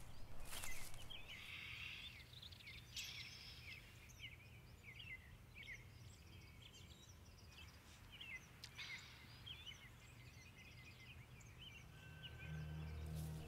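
Quiet woodland ambience: small birds chirping and calling over and over above a low rumble, with a couple of footsteps on the forest floor in the first second. A low, steady music drone fades in near the end.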